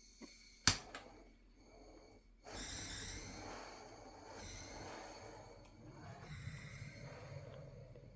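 A sharp click about a second in, then from about two and a half seconds a hissing that swells and fades in waves: a lighter being used to light the firelighter under the logs in a corner fireplace.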